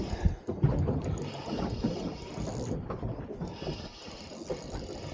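Fishing reel being cranked to wind in line with a hooked snapper on, a rough mechanical whirring that pauses briefly about three seconds in.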